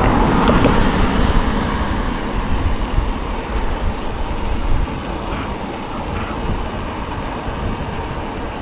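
A car passing on the road, loudest in the first second or so and then fading, over a steady low rumble of wind on the microphone of a moving bike.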